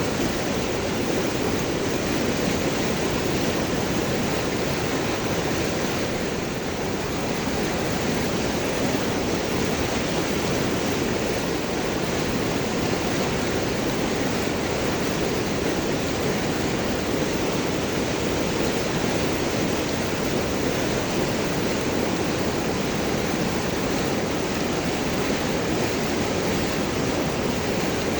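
River water rushing and gurgling over large rocks, a steady full rush of flowing water.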